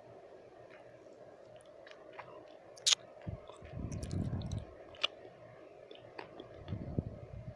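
Close-miked wet mouth sounds: sharp tongue and lip clicks, the loudest about three seconds in and another about five seconds in, with two softer, longer wet stretches between them, over a steady low hum.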